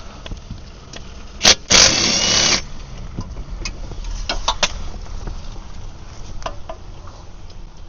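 Impact wrench undoing a driveshaft bracket bolt: a short blip, then a burst of just under a second, followed by a few light metallic clinks.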